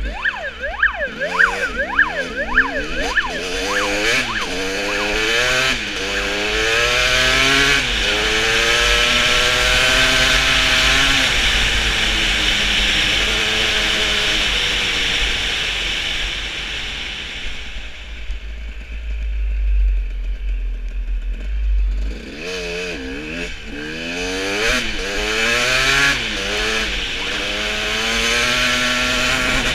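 A police siren yelping in fast up-and-down sweeps for the first few seconds. Then motorcycle engines rev hard, their pitch climbing again and again as they accelerate, over a steady low rumble.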